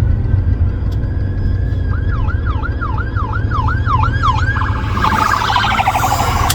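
Police siren sounding over a low car engine and road rumble: about two seconds in it starts a wail that sweeps up and down about two and a half times a second, then switches to a faster pulsing warble near the end.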